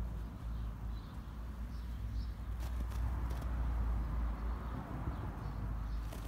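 Small birds chirping faintly now and then over a steady low rumble, with a few faint ticks near the middle.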